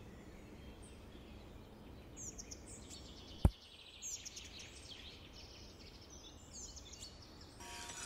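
Birds chirping in short repeated downward-sweeping calls over a low background hiss, with one sharp knock about three and a half seconds in.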